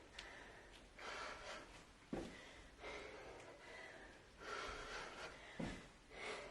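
A woman breathing hard in heavy, gasping breaths during a set of weighted jump lunges. Two short dull thumps come in, about two seconds and five and a half seconds in.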